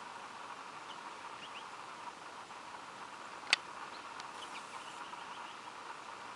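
Faint, short bird chirps here and there over a steady background hiss, with one sharp click a little past halfway.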